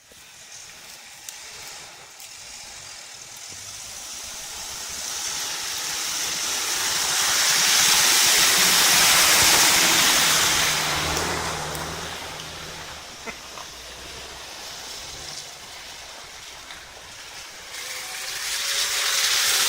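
A vehicle passing: a rushing engine and road noise that grows to a peak about halfway through, then fades, and rises again near the end.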